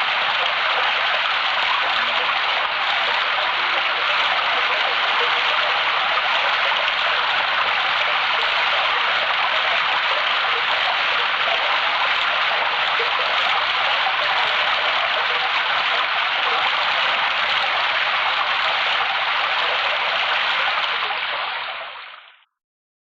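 Steady rushing water noise, like a stream or heavy rain, fading out quickly about 21 seconds in.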